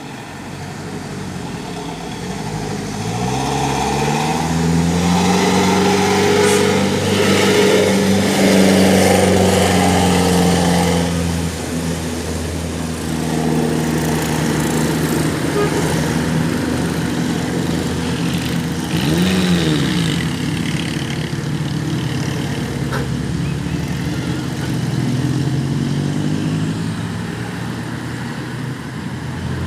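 Diesel engine of a loaded dump truck labouring up a steep incline. Its pitch climbs over the first few seconds, then holds loud and steady. About two-thirds of the way through there is a brief rise and fall in pitch.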